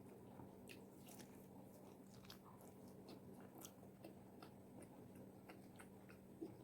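Close-miked chewing of crispy fried chicken wings: many small, sharp crunches and crackles of the fried skin, faint over a steady low hum.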